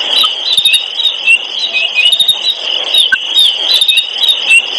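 Dense, continuous chirping of many small birds, several short high chirps a second.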